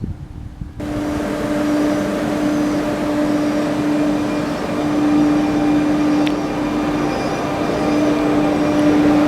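Minuetto regional train running through the station with a steady hum and rumble, starting abruptly about a second in.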